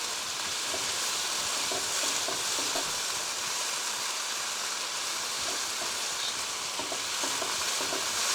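Marinated chicken slices sizzling in hot oil in a pan on high heat, a steady frying hiss with occasional light clinks of stirring.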